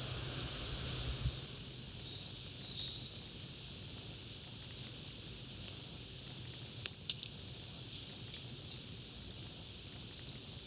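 Campfire crackling: a steady hiss of burning wood with scattered sharp pops, the loudest about seven seconds in. A low rumble fades out in the first second or two.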